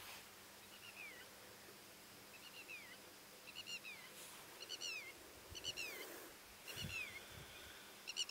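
A bird calling over and over, about once every second or so: each call is a quick run of a few high, sharp notes ending in a falling slur. Faint outdoor hiss lies underneath, and a few soft low thumps come about seven seconds in.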